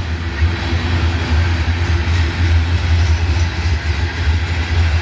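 Diesel locomotives on the head end of a freight train passing close by: a steady low engine drone over a broad rumble of rail noise.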